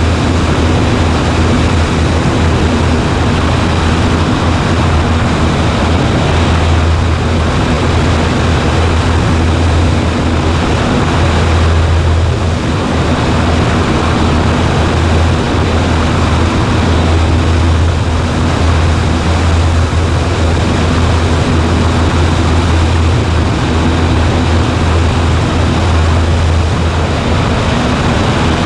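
Cessna 140A's piston engine and propeller running steadily at a constant power setting, a loud even drone with a low hum underneath.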